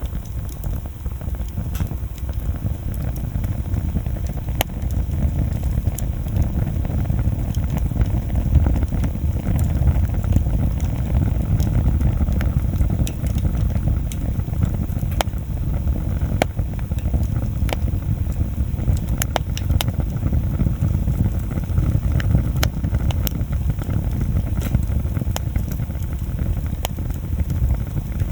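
Wood bonfire burning, with a steady low rumble and scattered sharp crackles and pops from the burning wood.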